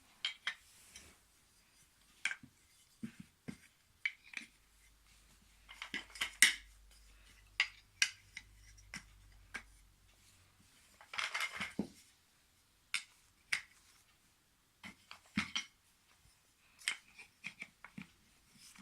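Wooden IKEA toy train track pieces being handled and fitted together: irregular sharp clicks and knocks, with small clusters of clattering about six and eleven seconds in.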